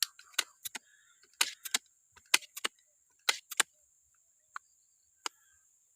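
A quick, irregular series of sharp clicks and knocks, thinning out after about four seconds: an air rifle being handled and readied for the next shot. A steady, faint high-pitched hiss continues underneath.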